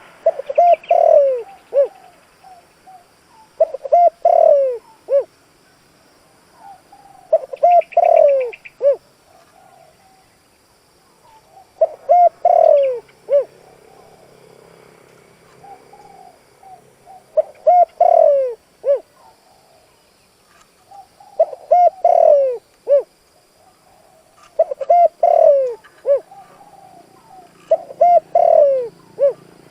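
Spotted dove cooing in about eight repeated phrases, each a few short coos ending in a longer falling note. This is a decoy dove's full calling song, used to draw in wild doves.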